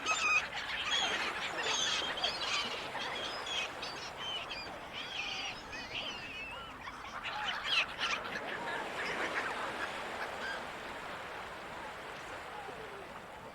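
Gulls calling again and again, many short squawking cries, busiest in the first few seconds and again around seven to eight seconds in, then thinning out near the end. A steady wash of ocean noise runs underneath.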